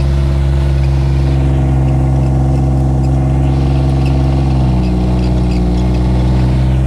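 Engine of a Gator utility vehicle running steadily as it drives, its pitch dropping a little about two-thirds of the way through.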